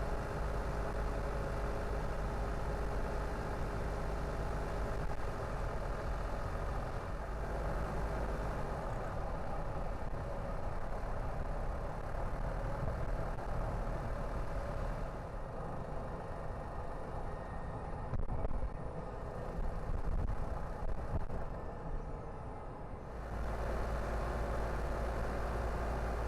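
Car driving along a road: steady low road and engine rumble with tyre noise. Partway through the second half the deep rumble eases for several seconds, then comes back.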